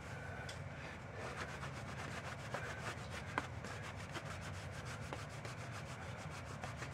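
Faint, rapid back-and-forth rubbing strokes on a metal engine surface, from scrubbing and scraping old gasket sealant off the Volvo five-cylinder engine's mating face, with a couple of sharper ticks.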